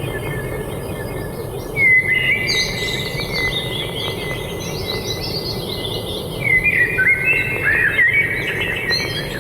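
Birds chirping and singing in quick, warbling phrases. The phrases come loudest about two seconds in and again from about six and a half to eight and a half seconds, over a steady low background hum.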